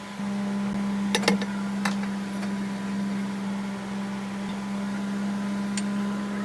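A steady low hum with a faint higher tone above it, like a running appliance motor, and a few light clicks or clinks about a second in and just before two seconds.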